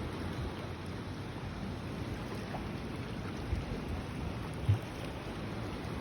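Steady rush of water from a strong current, mixed with low wind rumble on the microphone; a single brief low thump near the end.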